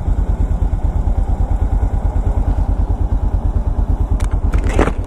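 Motorcycle engine idling with a steady, low, pulsing beat. A brief clatter comes near the end.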